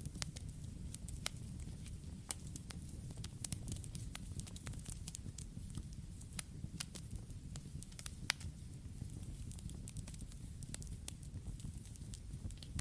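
Campfire burning: a steady low rumble of flames with irregular sharp crackles and pops, several a second, a few louder pops scattered through.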